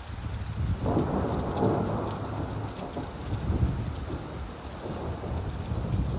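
Steady rainfall with a roll of thunder rumbling through it, swelling about a second in and slowly dying away.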